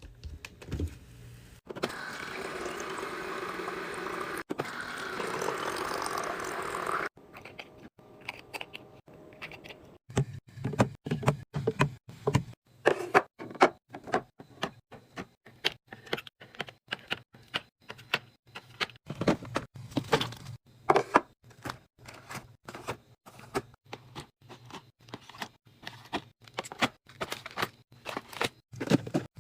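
Liquid pouring for about five seconds, then a long, irregular run of clicks and clacks as plastic and glass food containers and lids are handled and set down in a fridge.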